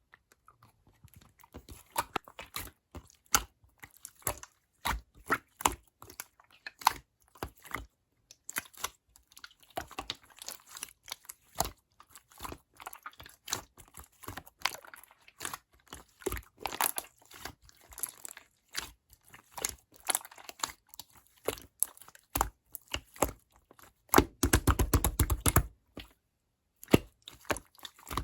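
Slime being squished and poked by hand, making a run of quick clicks and pops, with a fast, dense flurry of them near the end.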